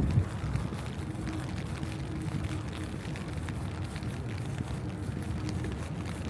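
City street traffic: a steady low rumble of passing vehicles, with a faint engine hum that comes in about a second in and again near the end.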